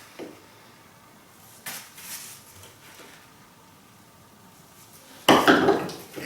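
Flat river flagstone pieces knocking and clinking against each other as they are handled and sorted: a few light knocks in the first couple of seconds, then a louder clatter about five seconds in.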